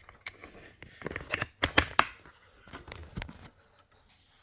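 Rustling and several sharp clicks and knocks, bunched around the middle, typical of equipment being handled.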